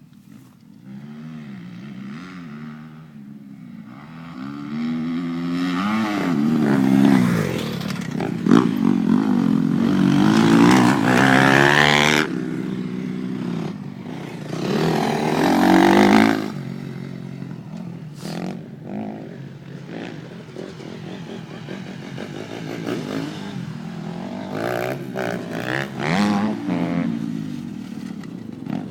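Motocross bike engine revving up and down as it is ridden through the gears, growing loud in the first half with another surge just past the middle, then running on more quietly.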